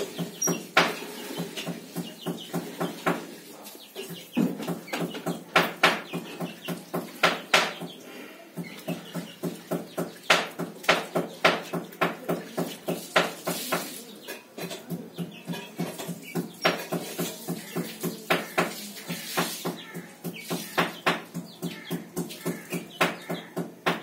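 Small finch-like bird giving short, sharp calls over and over in irregular runs while it is hand-fed, a sign that it is hungry and begging. A low steady hum runs underneath.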